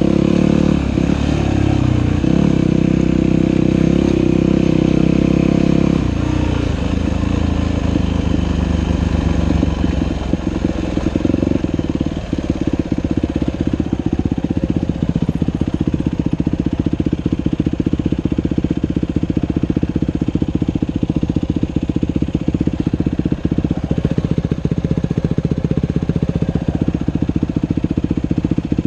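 Dirt bike engine running on a trail ride, pulling hard with its pitch shifting for the first six seconds, then settling to a lower, steady chugging run.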